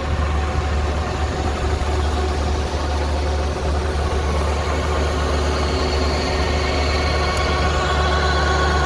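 Kubota rice combine harvester's diesel engine running steadily with a low hum. Toward the end a higher, steady mechanical whine rises in over it.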